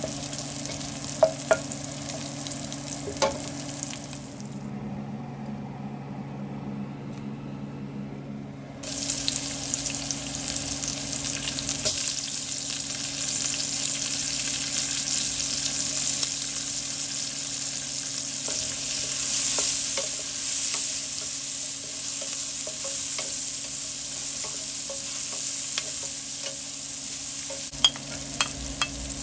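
Pork cubes sizzling in hot fat in a stainless steel pan, a wooden spatula clicking and scraping against the pan as they are stirred. After a short duller stretch, chopped red onion fries in the rendered pork fat with a louder, steady sizzle.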